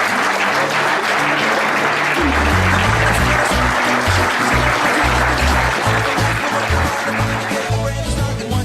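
Audience applauding, with upbeat music and a pulsing bass line coming in about two seconds in; the applause dies away near the end.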